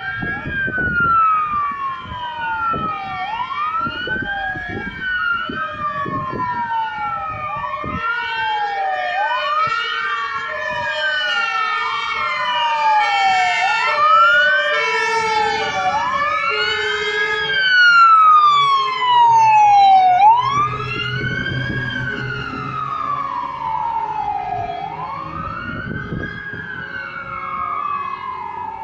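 Fire engines on an emergency run, their electronic wail sirens sweeping up and down and overlapping, with Martin-Horn air horns sounding their alternating two-tone call. The sirens peak loudest past the middle, then a truck's diesel engine rumbles past.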